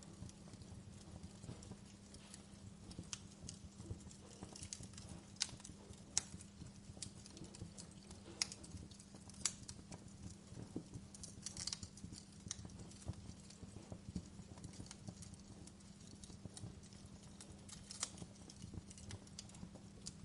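Wood fire crackling in a fireplace: irregular sharp pops and snaps, a few of them louder, over a faint low steady noise.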